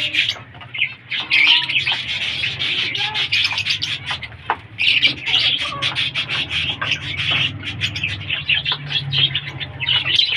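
Pet lovebirds chirping and chattering, a dense, continuous run of many short, high chirps.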